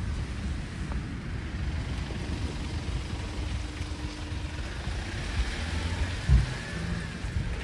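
Street sound with a motor vehicle running nearby, over a steady low rumble of wind on the microphone, and a single low thump about six seconds in.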